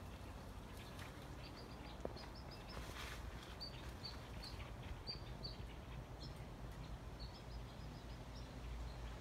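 Faint small-bird chirping: loose runs of short, high chirps over a low, steady outdoor rumble.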